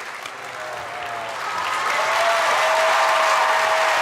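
Studio audience applauding and cheering, growing louder about a second and a half in, with a long held cheer over the clapping.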